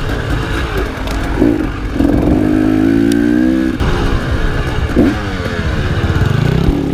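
Enduro motorcycle engine working hard under changing throttle, its pitch rising and falling, with quick high rev spikes about a second and a half in and again about five seconds in, and a sudden drop in revs near the middle.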